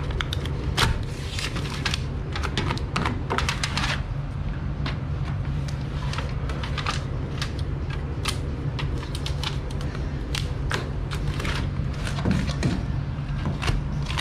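Rapid, irregular clicks and crackles of hands-on work, over a steady low hum.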